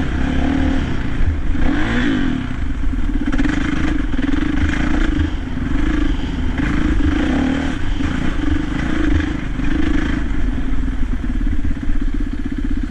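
Dirt bike engine running hard under throttle as the bike is ridden, its pitch rising and falling as the rider revs on and off, with a rattle of the bike over rough ground.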